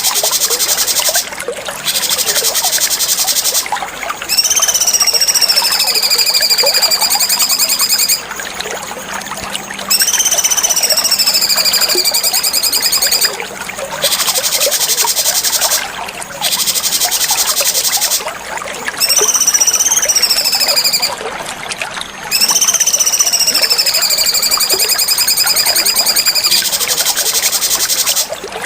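Cucak cungkok song for bird masteran: a continuous fast, buzzy high-pitched chatter that breaks off in short gaps every few seconds. Four times it is joined by a long whistled note that sweeps up, slides down and holds for several seconds.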